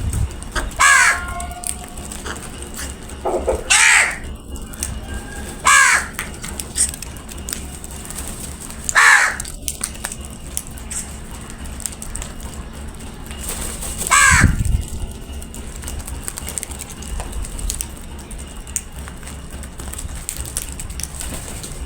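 Crows cawing: about five loud single caws a few seconds apart, with none in the last third.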